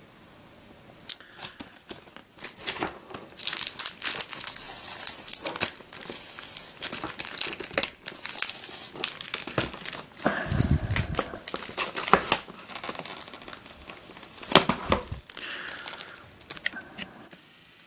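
Packaging crinkling and rustling as it is handled and torn open by hand, with a few sharp clicks and knocks.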